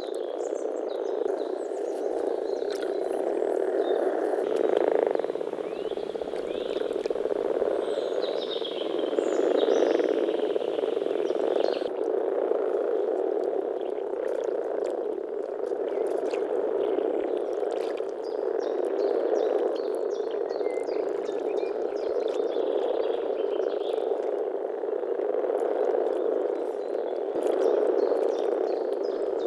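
Chorus of many common frogs (Rana temporaria) calling together, their overlapping low purring calls merging into a steady drone that swells and eases every few seconds.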